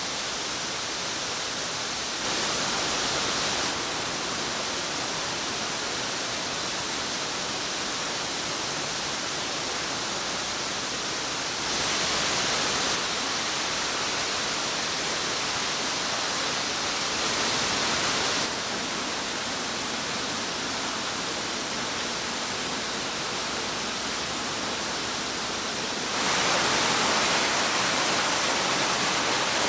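Waterfall rushing as a steady roar of falling water. It gets louder for a few seconds about two seconds in and around twelve seconds, and is loudest near the end.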